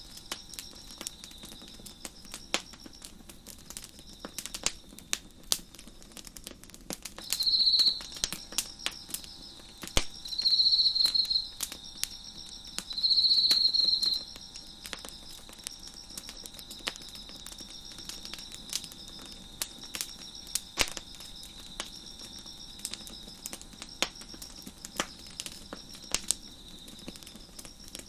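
Wood fire crackling with scattered sharp pops, over crickets chirping in a steady high pulsing chorus. About a third of the way in, a closer insect trills loudly three times in short high bursts.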